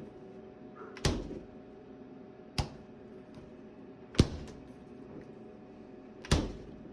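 Refrigerator doors shut with a thud four times, about every second and a half, over a steady low hum. Closing the fridge door pushes the freezer door open, a sign that the fridge is not tilted back enough for its doors to swing shut and stay closed.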